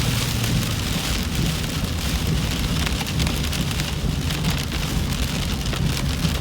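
Heavy rain pelting a moving car's roof and windshield in a severe thunderstorm, a steady hiss with scattered sharp drop hits, over the low drone of the car's engine and tyres.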